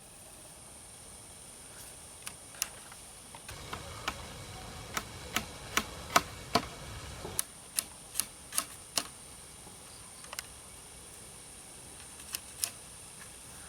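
Sharp irregular clicks and taps of bamboo being worked by hand, coming fastest around the middle, with a faint steady high whine underneath.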